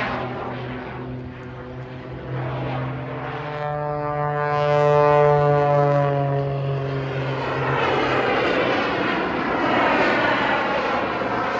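Propeller-driven aerobatic display aircraft's engine, louder about four to six seconds in, its pitch sliding down as it flies past, then a rougher, noisier roar near the end.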